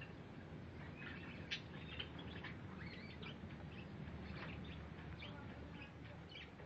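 Small caged bird chirping in short, scattered calls, a few of them brief rising notes, over a steady low background rumble.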